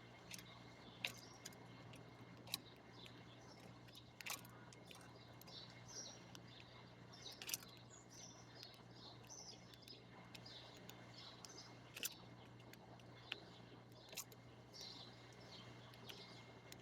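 Faint, frequent chirps of small birds throughout, with about half a dozen sharp clicks standing out louder at irregular intervals, over a steady low hum.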